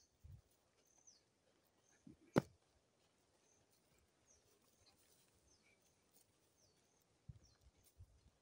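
Quiet outdoor ambience with small birds giving short, high, falling chirps over and over, a single sharp knock about two and a half seconds in, and a few soft low thumps near the start and end.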